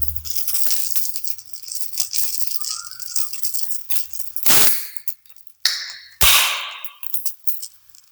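Kitchen cooking sounds: a run of small clicks and clinks of utensils and cookware. Two louder noisy rushes come about four and a half and six seconds in, the second starting with a knock.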